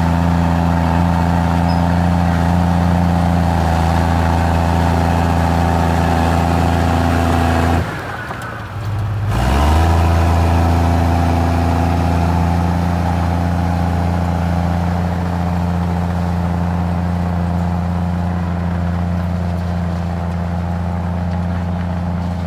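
Komatsu bulldozer's diesel engine running steadily under load. About eight seconds in the sound breaks off for a moment and comes back with a short rise in pitch, then runs steady again.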